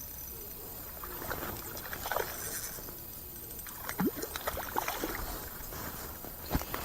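Water splashing and plopping, with several short drip-like plops over a steady low background.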